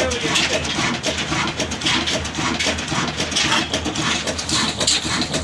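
Stationary diesel oil engine running, a steady low hum under a busy, irregular clatter.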